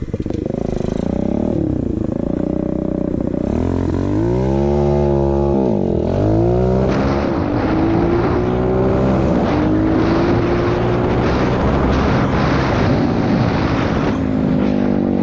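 Pit bike's small motorcycle engine revving up and down a few times, then running at a steadier, slowly climbing pitch as the bike pulls away and rides.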